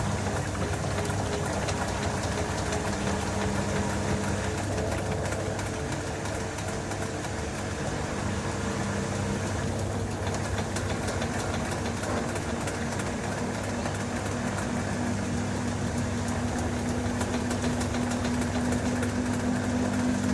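LG TurboDrum WT-R852 top-loading washing machine running with a steady motor hum over a continuous wash noise; near the end a new tone joins and it gets slightly louder.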